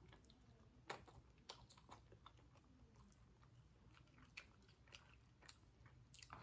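Faint close-up chewing and mouth sounds of someone eating chicken and noodles, with scattered soft clicks throughout, the sharpest about a second in.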